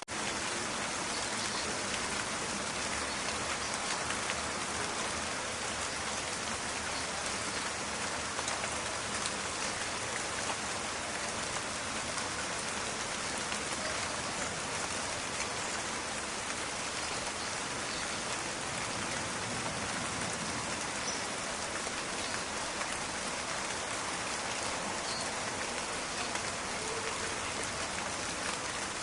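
Steady rain falling, a dense crackling patter of drops that holds even throughout.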